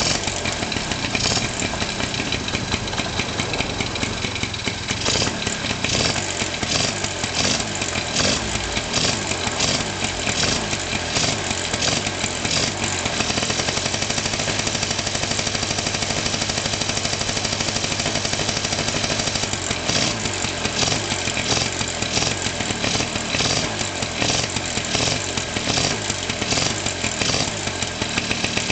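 Honda Lead 100 scooter's two-stroke single-cylinder engine running after being started, pulsing unevenly, with a steadier stretch in the middle.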